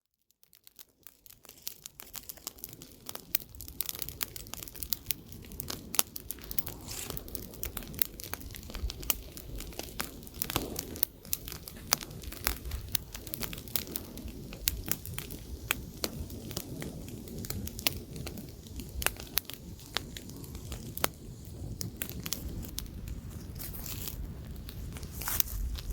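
Wood campfire crackling, with many sharp pops and snaps over a low rush of light wind. It fades in over the first couple of seconds.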